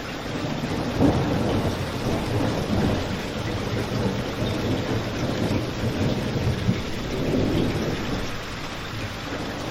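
Steady rain falling, with a low rolling rumble that swells and fades beneath it.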